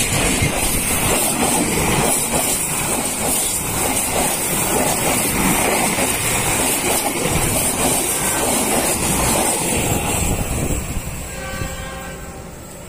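Passenger train hauled by a KAI CC206 diesel-electric locomotive passing close by: loud, steady noise of the locomotive and carriages running over the rails. The noise fades about ten seconds in as the train draws away.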